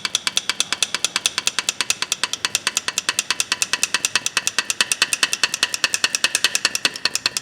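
Rusty steel pliers being worked rapidly open and shut by hand, the metal clicking about ten times a second with a slight ring, to free up a stiff, rusted pivot joint. The clicking stops suddenly at the end.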